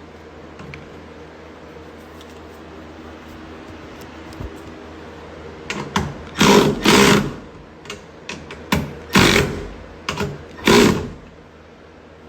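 A small handheld power tool runs in several short bursts in the second half, fastening the hatch strut's mounting hardware, over a steady low hum.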